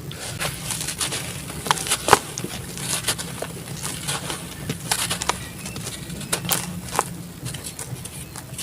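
Black sand-cement chunks crumbling in water, giving irregular crackles and small cracks, the sharpest about two seconds in.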